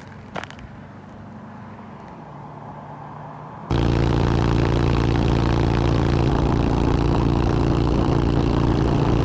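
Motorcycle engine running at a steady speed under loud wind noise on the microphone, cutting in suddenly about three and a half seconds in. Before that, only a quieter low steady hum.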